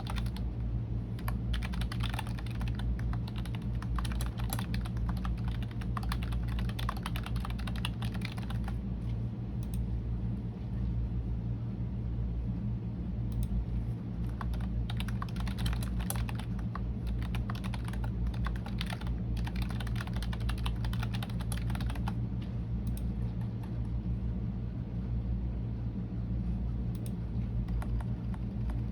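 Typing on a computer keyboard: runs of rapid key clicks broken by short pauses, over a steady low hum.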